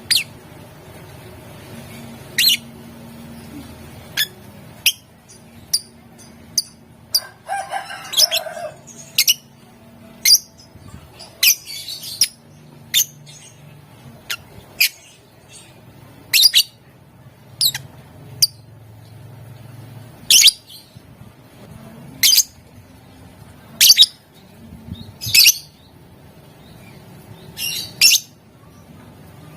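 Lovebird giving short, sharp, shrill chirps, one every second or two, with a brief burst of chattering about seven seconds in. A faint steady low hum runs underneath.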